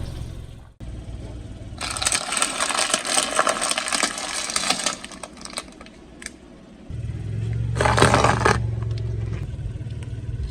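A car tyre rolling over and crushing something crunchy: dense crackling and crunching for about three seconds, then a shorter crunch about eight seconds in. A car engine idles low underneath before and after the main crunch.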